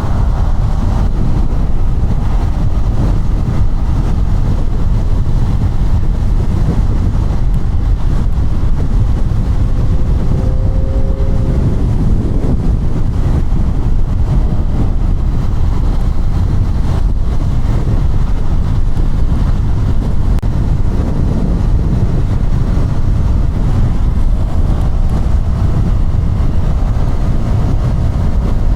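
KTM Duke 200 single-cylinder engine running while riding, mostly buried under heavy wind rumble on the microphone. The engine note shows through faintly about ten seconds in and again near the end.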